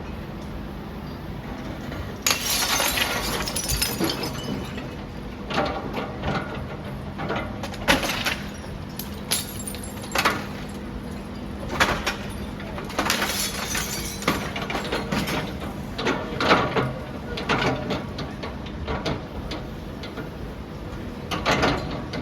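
Building demolition: a series of irregular crashes of breaking glass and falling debris, over the steady engine hum of the demolition machinery.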